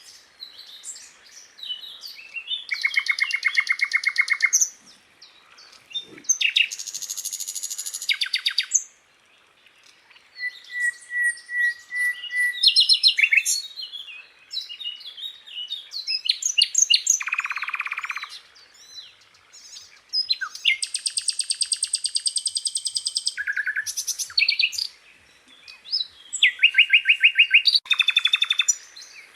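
Sikatan londo flycatcher singing: a string of fast, high trills and rattles, each phrase a second or two long and pitched differently from the last, with short pauses between.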